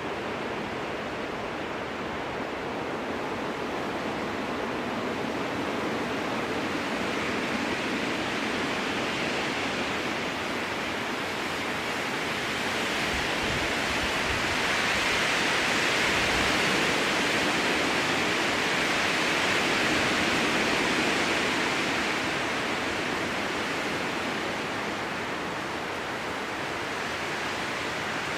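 Strong wind rushing through spruce trees, a steady hiss of air through branches and needles. It swells into a stronger gust about halfway through and then eases back.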